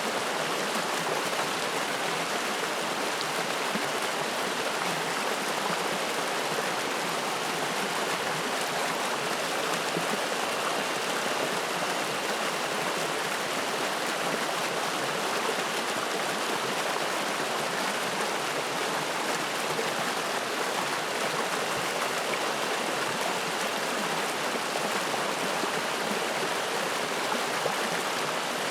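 Spring-fed mountain stream flowing and splashing steadily, an even rush of water with no breaks.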